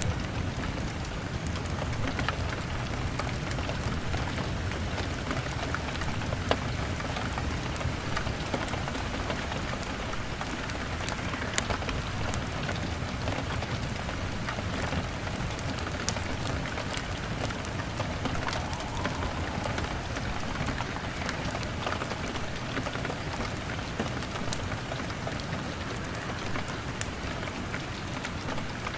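Steady rain pattering on a window pane, mixed with a crackling wood fire that gives scattered sharp pops throughout.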